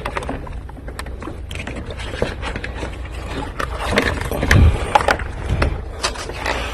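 Hand tools and engine parts clicking and rattling as they are worked on under the hood, with a louder clatter about four to five seconds in, over a steady low hum.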